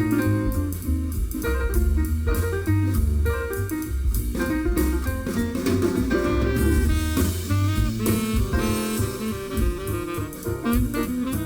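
A jazz track with saxophone, drums and guitar over a strong bass, played through a car audio system and heard inside the car's cabin.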